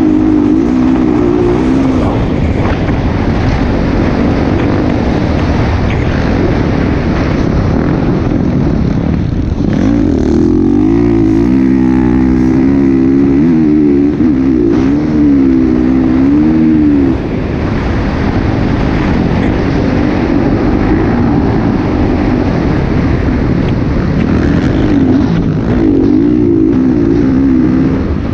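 Motocross bike engine running, its pitch rising and falling as the throttle is worked on and off, most clearly in the middle of the clip.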